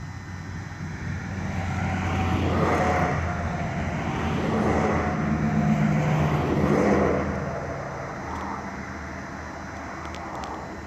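A passing engine: a steady hum swells over a few seconds, loudest between about two and seven seconds in, then fades.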